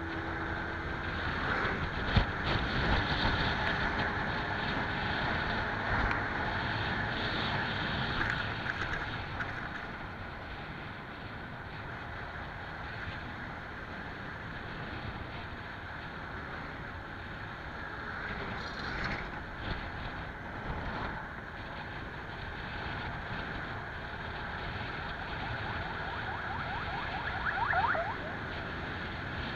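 Steady road and wind rush while riding a bike, with a couple of sharp knocks in the first few seconds and a short rising tone near the end.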